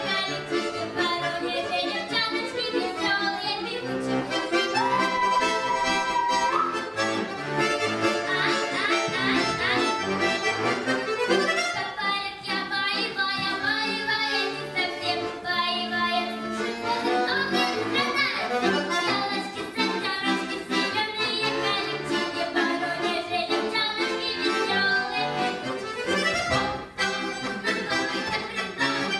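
Accordion playing a lively piece, with quick runs of notes.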